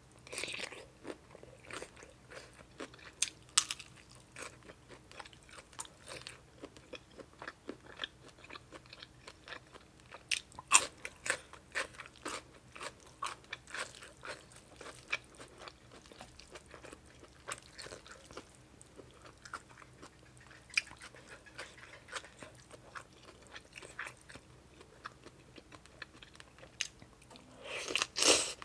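Close-up mouth sounds of eating Thai spicy seafood papaya salad: irregular crunching bites and chewing, the crunch of squid tentacles and vegetables, with a few sharper crunches standing out.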